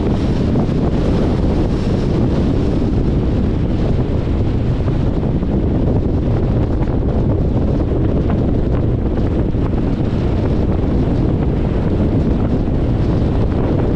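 Steady wind rushing over the microphone, with the low rumble of a 2021 Jeep Compass driving along the road.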